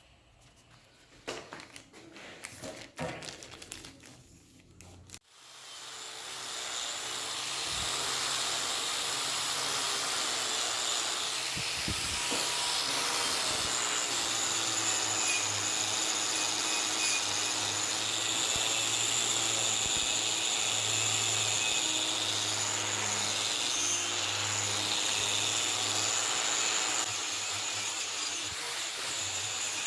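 A few clicks and knocks, then about five seconds in a power tool starts and runs steadily with a high whine.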